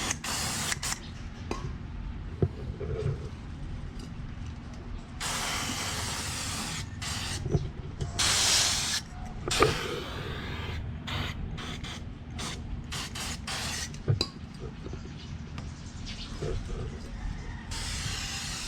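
Aerosol can of chain and engine degreaser spraying onto a motorcycle chain in several hissing bursts, the longest lasting about a second or more. Short clicks and knocks come between the bursts.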